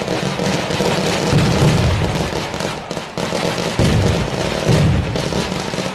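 Fireworks going off in an uncontrolled fire: dense crackling and popping throughout, with deep booms about a second and a half in, and again near four and five seconds.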